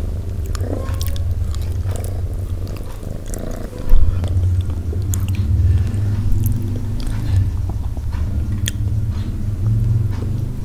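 Close-miked chewing of soft steamed pumpkin: wet mouth sounds with small lip-smacking clicks over a low rumble. A loud low thump comes about four seconds in.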